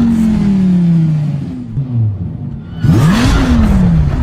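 Sports car engine revving: the revs fall away slowly over about a second and a half, two short blips follow, then about three seconds in a sharp rev climbs and falls away again.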